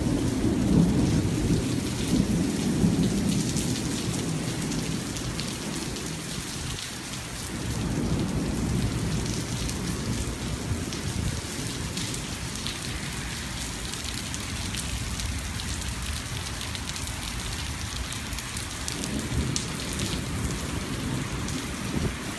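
Thunderstorm: steady heavy rain with rolling thunder. A loud rumble at the start dies away over a few seconds, another rumble swells about a third of the way in, and more rumbling comes near the end.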